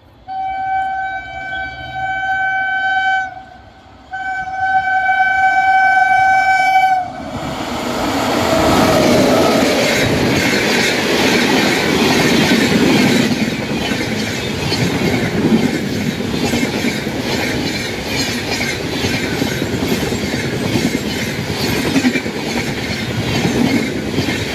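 Shatabdi Express approaching a level crossing at speed: its locomotive sounds two long horn blasts, then the train rushes past close by, wheels clattering steadily under the coaches.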